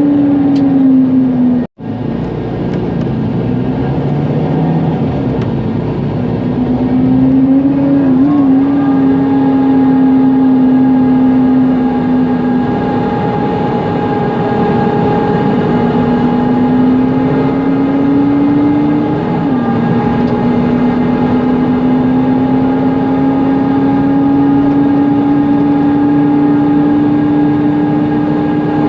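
Mercedes-Benz Conecto NGT city bus under way, heard from inside: its CNG engine and ZF automatic gearbox whine rises steadily with speed and falls back at gear changes, once about halfway through and again about two-thirds through, over a steady rush of the bus's noisy cooling fan. The sound cuts out for an instant near the start.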